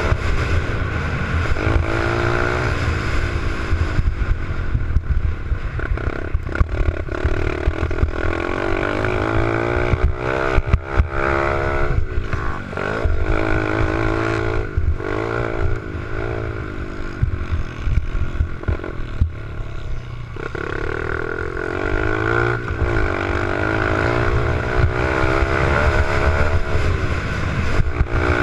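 Small pit bike engine being ridden, revving up and easing off again and again, its pitch rising and falling with each throttle change.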